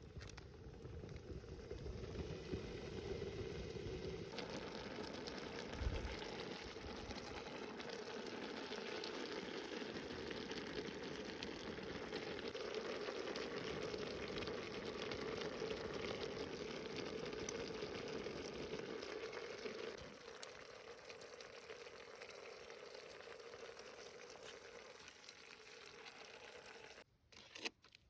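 Food frying in a pan, a steady sizzle that shifts in character a few times.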